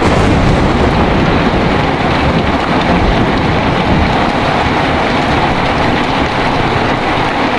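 Heavy rain pouring steadily, with a low rumble of thunder dying away in the first second or so.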